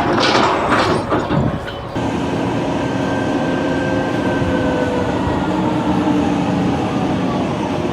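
A couple of seconds of loud, irregular clattering, then a steady rumbling machine or vehicle noise with faint held tones that slowly fall in pitch.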